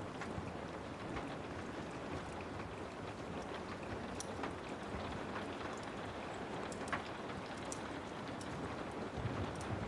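Steady rain with a wood fire crackling: an even hiss of rain under scattered sharp pops, the loudest about seven seconds in.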